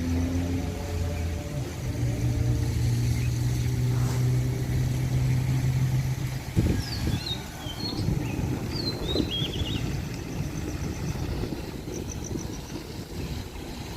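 A passing motor vehicle's engine hums steadily and then fades out about halfway through. Birds chirp in the second half over a steady low background rumble.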